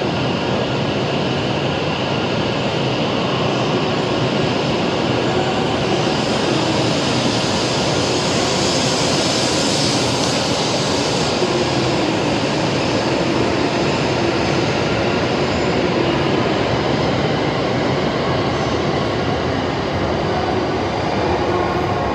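E7/W7-series Shinkansen train moving along the platform, a steady rumble and hiss from the passing cars that grows brighter about halfway through.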